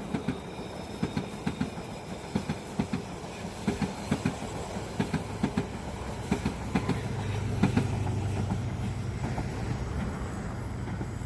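Train passing at speed, its wheels clacking over rail joints in a regular run of paired clicks. A low steady hum comes up about seven seconds in as the clicking fades.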